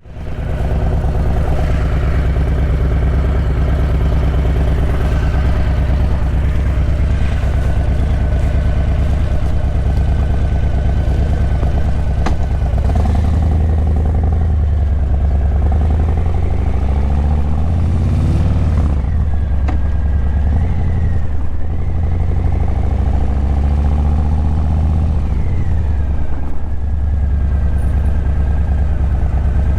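Harley-Davidson Breakout 117's Milwaukee-Eight 117 V-twin running through a Vance & Hines Eliminator 300 slip-on exhaust. It runs steadily at first, then from about halfway through it revs up and drops back a few times as the bike pulls away and rolls off.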